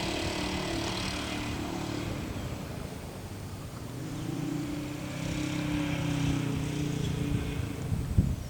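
An engine running steadily at a distance, a low hum with a steady tone that grows louder about four seconds in and eases near the end.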